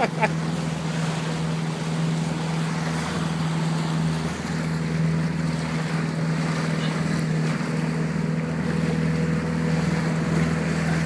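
A boat's engine running steadily as a low, even hum, with wind and water noise over it.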